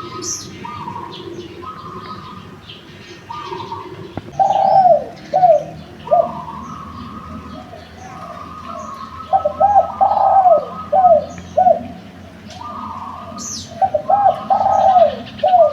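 Spotted dove (derkuku) cooing in three bouts of several short coos each, about five seconds apart, over steady chirping from other birds.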